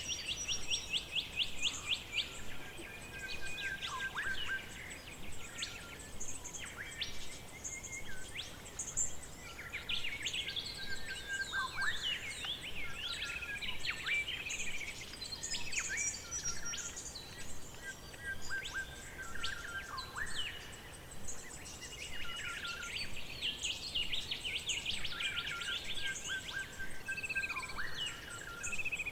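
Forest bird chorus: several birds singing and calling at once, with rapid trills, short whistled notes and downward-sweeping calls overlapping throughout.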